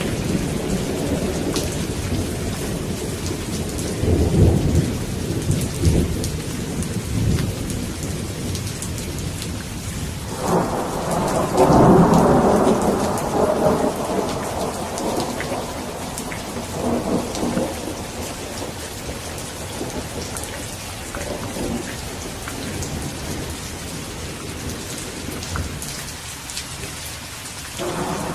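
Steady heavy rain with rolling thunder: low rumbles swell and fade several times, the loudest breaking suddenly about ten seconds in and rolling on for several seconds.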